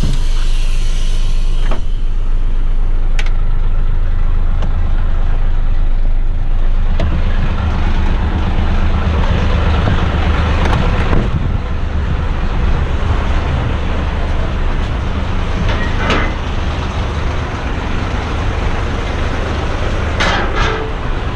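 Garbage truck's diesel engine running, with a short hiss of air right at the start. About seven seconds in the engine grows louder and rougher, and a few brief knocks come later.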